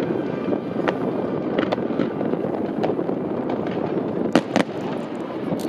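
Fireworks display: a continuous crackle with scattered pops, and two loud bangs close together near the end as shells burst.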